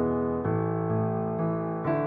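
Background music: gentle piano, with sustained chords and a new note struck about half a second in and again near the end.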